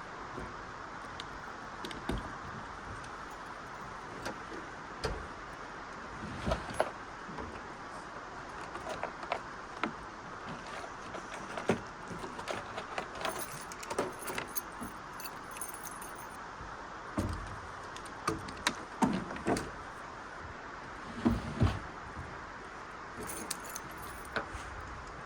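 Keys and gear being handled: scattered clicks, clinks and jingles with several louder thumps, over a steady rushing hiss.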